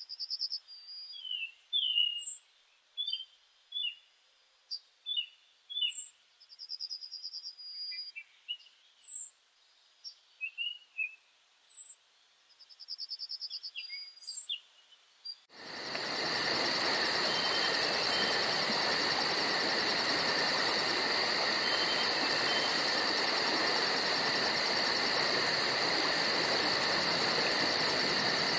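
Woodland birds calling and singing: short high chirps that repeat about every two seconds, with a few trills and lower chirps between them. About halfway through the sound cuts abruptly to a dense, steady chorus of insects with a fast, evenly pulsing high buzz, and a few bird chirps come back near the end.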